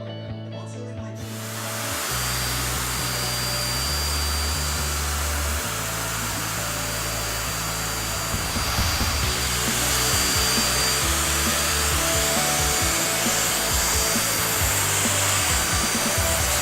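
Hoover vacuum cleaner running, a steady rushing hiss with a thin high whine that starts about a second in and grows louder partway through, over background music.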